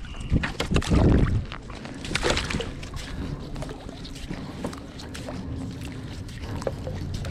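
Water and hull sounds from a kayak on the water, with small knocks and splashes. A loud low rumble in the first second and a half is wind on the microphone.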